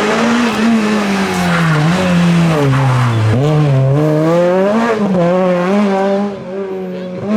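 Rally car engine passing at racing speed: the revs sink about three seconds in, as if lifting off for a corner, then climb again before the car draws away and fades after about six seconds.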